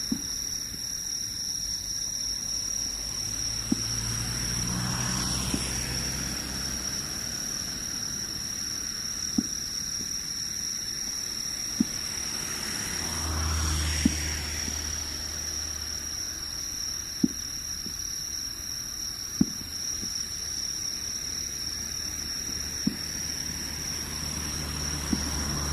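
Fireworks bursting, heard as about ten sharp booms every two to three seconds, over a steady high-pitched whine. Vehicles swell past twice.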